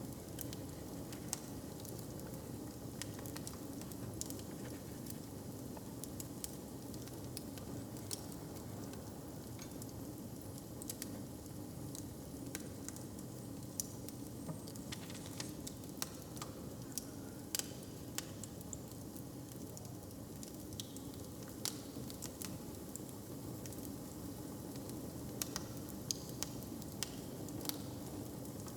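Fire crackling, with irregular sharp pops and snaps scattered throughout, over a steady low background rumble.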